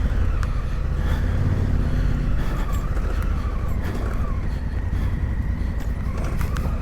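Adventure motorcycle engine running at low revs, the pitch rising and falling as the throttle is worked over rough, rocky ground, under a heavy low rumble with a few sharp knocks.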